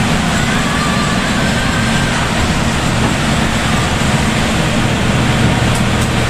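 Heavy rain and road spray on a moving coach, heard from inside the driver's cab, as a steady dense hiss over the low running of the bus engine and tyres on the wet road.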